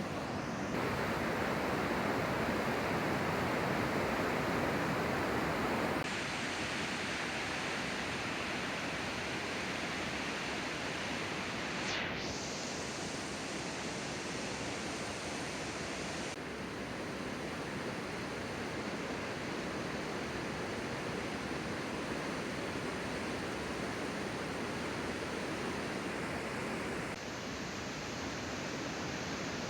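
Steady rushing outdoor noise, cut into several stretches whose loudness and tone change abruptly.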